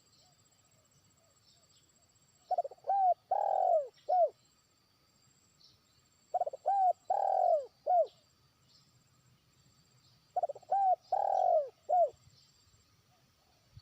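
Spotted dove cooing: three phrases, each a few quick short notes, then a long dropping coo and one short closing note. This is a trained decoy bird giving its long-distance call to rival doves.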